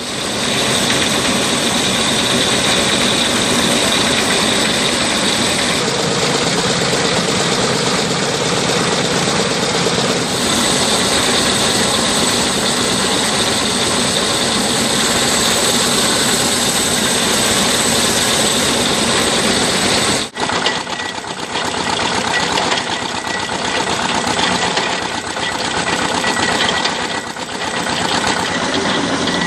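Machinery running steadily and loudly, engine-like, for about twenty seconds. It then cuts abruptly to a rougher, more uneven machine noise.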